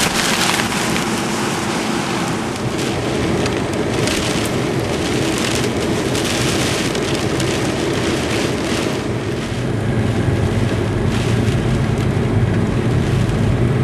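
Heavy rain and strong storm wind, a loud steady rushing noise with brief surges, and a deeper rumble growing stronger in the second half.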